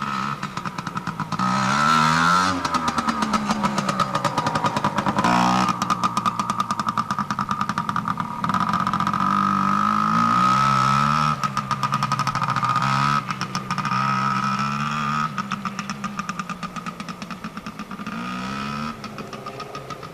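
Small dirt bike engine running under a first-time rider, its revs rising and falling several times as the throttle is opened and eased off.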